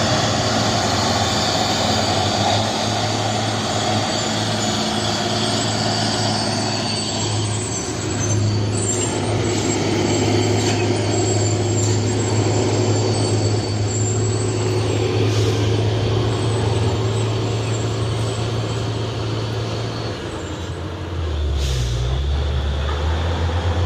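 Heavy diesel truck engine running steadily under load, with road noise. Near the end there is a short hiss, as of an air brake, and the engine note dips and then rises.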